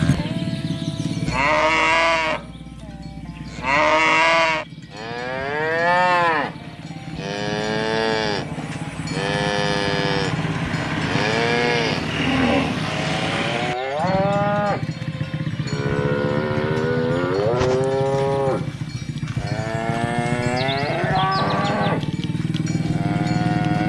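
A herd of cattle mooing, one long call after another with hardly a pause, some calls overlapping and many rising and then falling in pitch.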